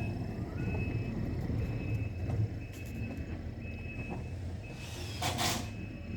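A machine engine running steadily with a backup alarm beeping about once a second while it reverses. A short hiss comes about five seconds in.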